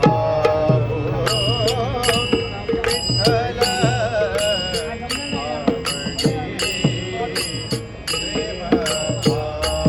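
Devotional bhajan singing: a wavering, ornamented voice over a steady held drone, with a hand drum's low strokes that drop in pitch and small cymbals ringing on a steady beat, about two to three strokes a second.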